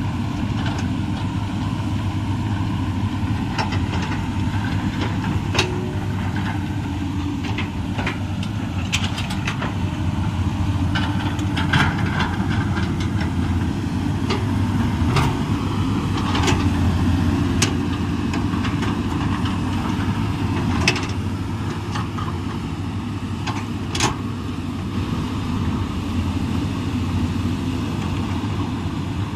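Komatsu PC200 crawler excavator's diesel engine running steadily, with occasional sharp knocks every few seconds.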